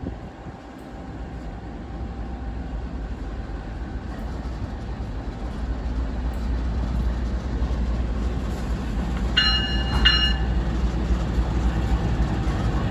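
Two diesel locomotives running light engine, their low engine rumble growing steadily louder as they approach. A little past halfway, two short blasts sound in quick succession on a multi-note horn.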